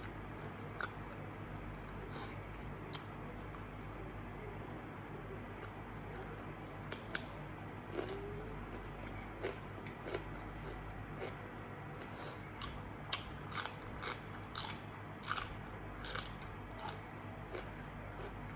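Close-up eating: a person biting and chewing a mouthful, with irregular wet clicks and crisp crunches, typical of chewing grilled pork-neck nam tok salad with raw vegetables. The crunches come more often in the second half.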